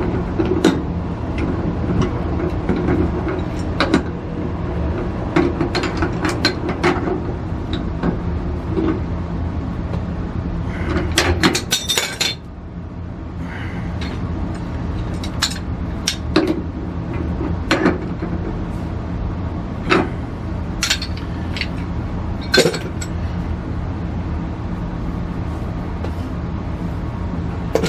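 Scattered metallic clinks, clicks and knocks of tools and parts being handled during a water heater gas valve replacement, over a steady low hum.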